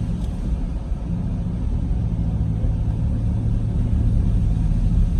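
A vehicle being driven, heard from inside: a steady low engine hum and road rumble with no sharp events.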